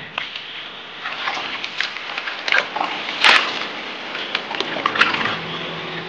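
Footsteps moving through a shallow rocky ditch and brush, with irregular rustling and cracking of twigs; the sharpest crack comes about three seconds in.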